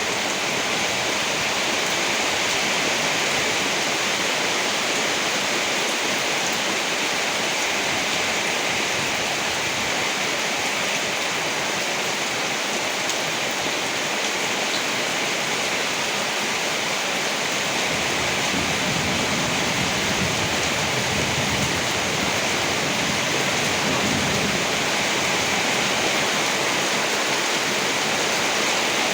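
Steady heavy rain, an even hiss, with a low rumble of distant thunder swelling for several seconds past the middle.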